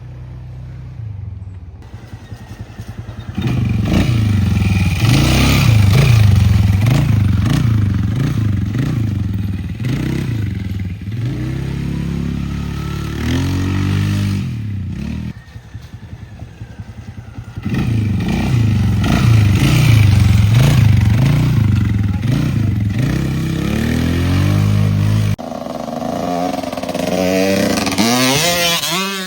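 Motorcycle engine being ridden hard, revving up and dropping back again and again, with a brief quieter lull in the middle.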